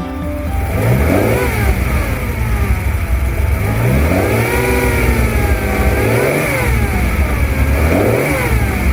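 Ferrari 365 GT4 2+2's V12 engine revving, its pitch rising and falling smoothly about four times.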